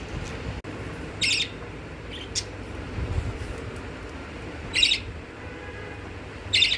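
Pet budgerigar giving short, sharp high calls: three loud ones a few seconds apart and a fainter one between, over a low steady background hum.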